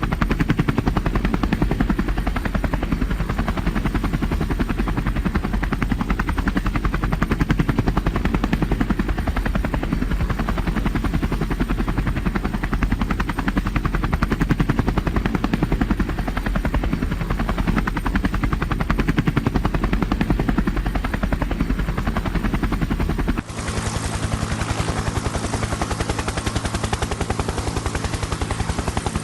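Helicopter in flight heard from aboard: a steady, rapid beat of the main rotor over the drone of the engine. About 23 s in, the sound cuts abruptly to another recording of the same helicopter.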